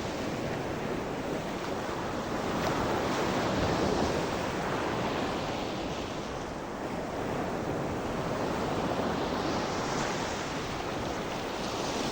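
Sea waves breaking and washing on a shore, the surf swelling and easing every few seconds, with some wind on the microphone.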